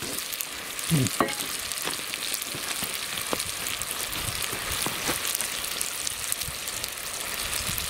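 Peppers, onion and tomatoes frying in bacon fat in a cast-iron pot over campfire embers: a steady sizzling hiss with scattered small crackles. A short falling-pitched sound about a second in is the loudest moment.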